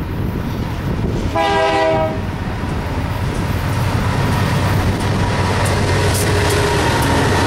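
One short air-horn blast from the lead BNSF diesel locomotive about a second in, then the low rumble of the approaching diesel freight locomotives, getting louder as they near.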